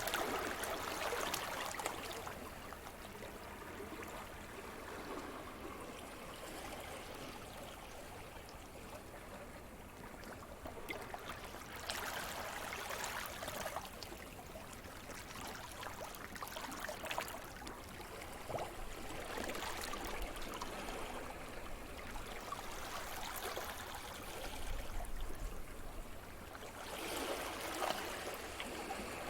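Sea surf: small waves wash in and draw back, a steady trickling wash that swells into a louder rush several times, at uneven intervals.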